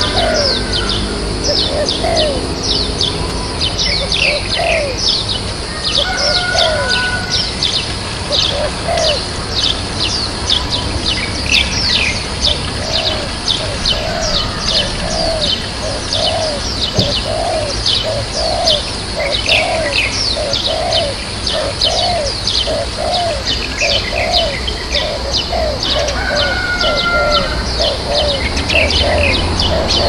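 Wild birds calling: a dense stream of quick, high, falling chirps over and over, joined through the middle by a steady run of lower, rounded calls about two a second.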